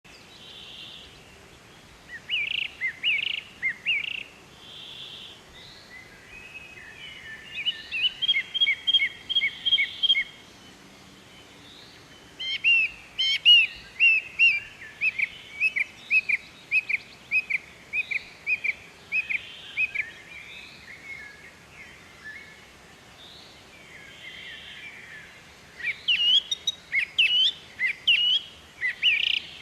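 Birds chirping: runs of short, quick, high chirps come in bursts, busiest in the middle and again near the end, over a faint steady hiss.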